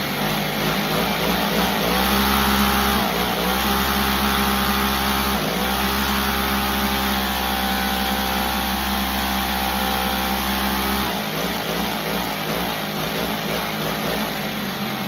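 An engine running, its pitch rising about two seconds in, dipping briefly near the middle, and settling back to a steady idle about eleven seconds in.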